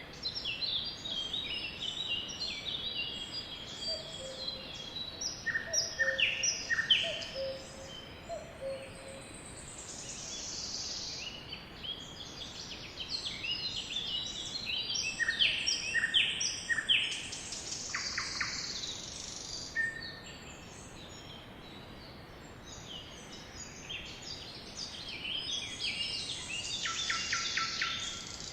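A flock of sparrows chirping and twittering together, many short overlapping calls coming in busy spells and easing off in between.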